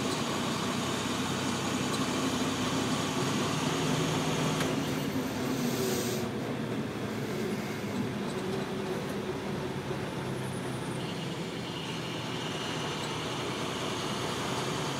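A car's engine running steadily, with road and cabin noise. A brief hiss in the high end cuts off about six seconds in.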